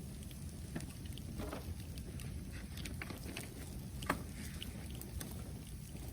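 Bonfire of bamboo and wood burning: a steady low rumble with scattered crackles and pops, the sharpest about four seconds in.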